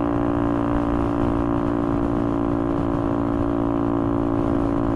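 Motorcycle engine and aftermarket exhaust running steadily at high revs while cruising, a bit loud, with an unchanging engine tone.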